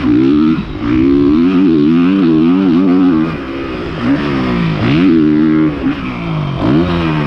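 Honda CRF450R 450cc four-stroke dirt bike engine revving hard, its pitch rising and falling with the throttle, dropping sharply and climbing back twice, about five and seven seconds in.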